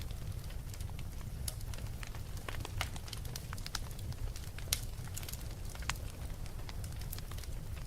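Fire crackling: irregular sharp pops and snaps over a low steady rumble, with one louder pop near the middle.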